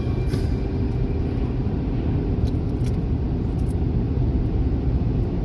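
A car driving on a snow-covered road: steady low rumble of road and engine noise, with a few faint ticks about halfway through.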